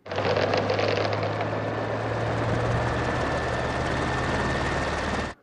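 Helicopter engine and rotor running steadily, with a thin high whine over the low drone, from a film soundtrack. It starts and cuts off abruptly.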